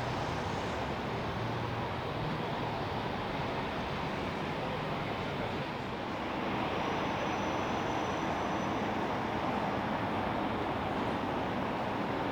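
Steady jet aircraft engine noise, growing a little louder about halfway through.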